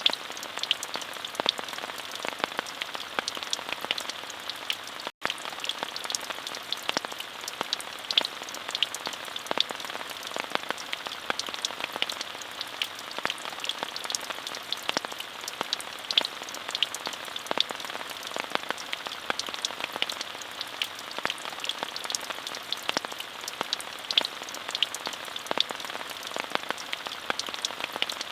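Steady rainfall: an even hiss dotted with many individual drops ticking. The sound cuts out for an instant about five seconds in.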